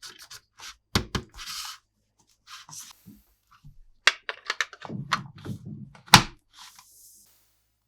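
Hard plastic toy pieces and packaging being handled: a run of sharp clicks and knocks with short bursts of rustling. The loudest is a sharp knock about six seconds in.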